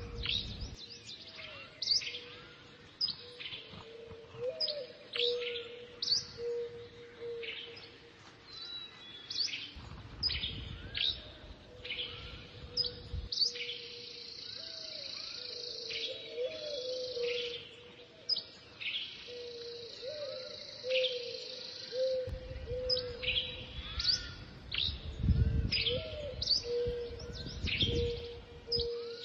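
Several birds singing, with many short, quick, downward chirps high up and a lower warbling call underneath. Light wind gusts in about ten seconds in, for a few seconds, and again from about two-thirds through to near the end.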